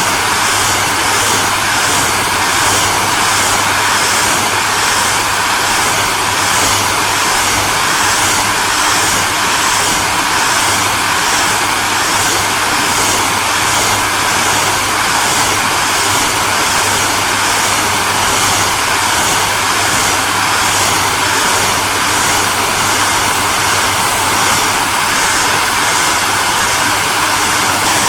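Hair dryer running steadily: a constant rush of blown air over a low motor hum.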